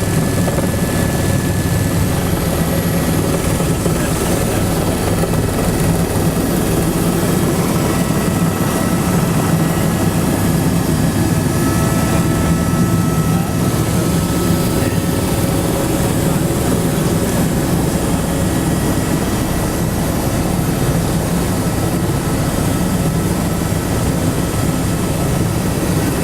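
Helicopter in flight heard from inside the cabin: steady, loud engine and rotor noise with a deep rumble and a few faint, steady high-pitched whines.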